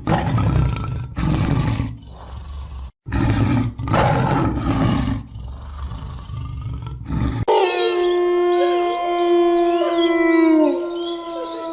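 A big cat roaring in several deep, rough bursts with short pauses, then about seven and a half seconds in an abrupt change to wolves howling, several long pitched voices overlapping and gliding.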